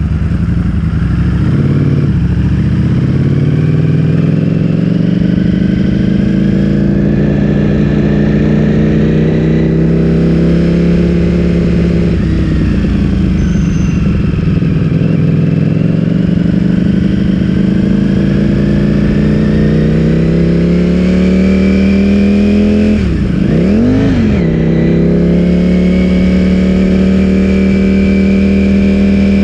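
Ducati Streetfighter V4S's 1103 cc V4 engine through an Akrapovic full-system exhaust, running loud under way. Its note climbs gradually, dropping back near 2 and 12 seconds in, and dips sharply then rises again at about 23 to 24 seconds.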